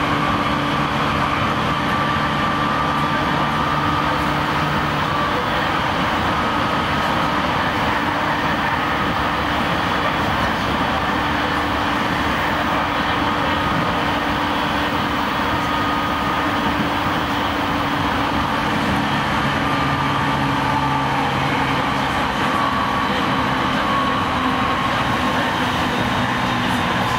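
Cabin noise of a JR East E217 series electric commuter train car running at speed: steady wheel-on-rail rolling noise, with a few steady humming tones from the motor car's drive equipment that fade and return.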